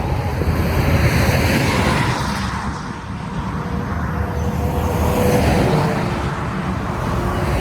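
Road traffic, cars passing with a steady low rumble of engines and tyres.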